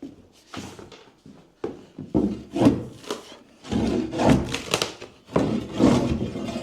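Rotten wooden floor boards being pried and pulled up: a run of irregular cracking, scraping and thudding of wood, loudest in the second half.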